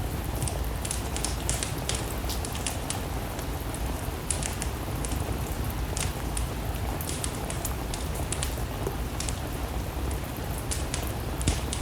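Steady rain with a low rumble, mixed with the irregular sharp crackles and pops of a wood-burning fire.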